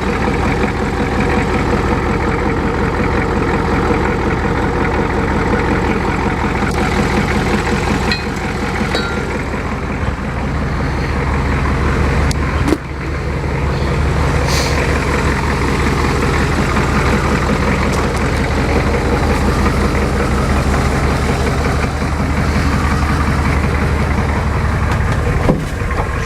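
1988 Ford F250's 7.3 L IDI V8 diesel idling steadily shortly after a winter cold start, still cold and running a little rough until it warms up.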